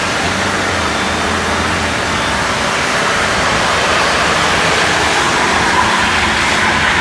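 A truck running hard, its engine noise buried in a loud, steady rushing roar that grows a little brighter near the end.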